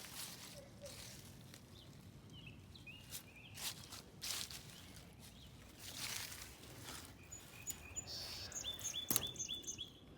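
Quiet outdoor ambience: a small bird chirps a few short notes about two and a half seconds in, then a quick run of about five chirps near the end. Scattered soft knocks like footsteps or handling noise and a faint low hum run underneath.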